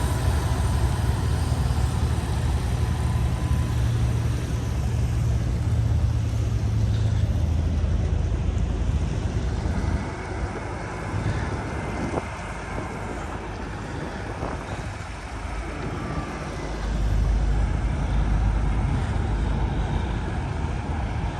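Tractor-trailer's diesel engine running with a deep low rumble. The rumble drops off sharply about halfway through and builds again a few seconds later, as the throttle eases off and is applied again.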